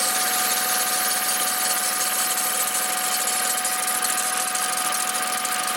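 VW up! 1.0 MPI three-cylinder engine running at idle with its ribbed accessory belt drive turning, carrying a steady high whine. The belt drive's squeal had been quieted by a spray of water.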